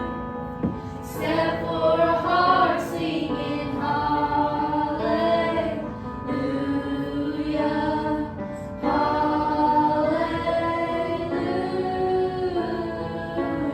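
Youth choir singing a slow song with sustained, held notes over a soft accompaniment.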